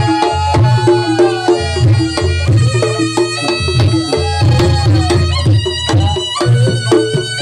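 Reog Ponorogo gamelan ensemble playing: kendang drum strokes in a steady beat under struck metal gong-chimes, with a slompret (shawm) melody bending and sliding between notes.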